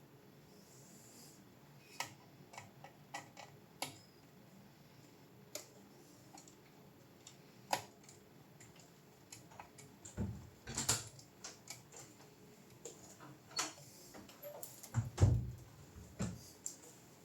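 Scattered small clicks and taps of hard objects being handled, irregular rather than rhythmic, with a few heavier knocks about ten seconds in and again near the end.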